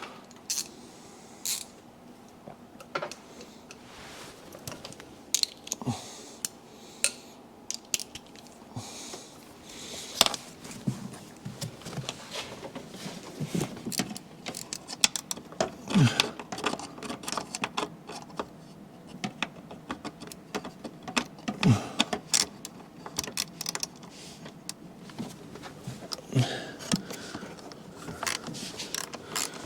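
Hand ratchet clicking in short irregular bursts while a bolt is run down, with knocks and clinks of metal tools against the engine; the clicking comes in quicker runs near the end.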